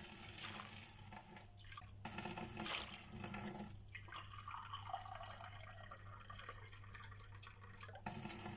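Water pouring into a stainless steel bowl of sliced bitter gourd, filling it for a salt-water soak.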